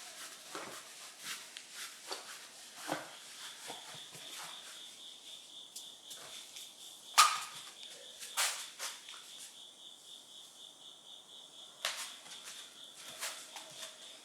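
Autumn insects trilling, a steady, finely pulsing high chirr that sets in a couple of seconds in. Scattered sharp clicks and knocks sound over it, the loudest about seven seconds in.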